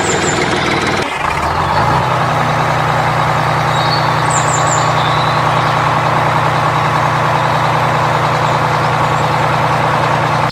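Tractor engine running steadily. About a second in there is a brief dip, and then a steady low drone settles in.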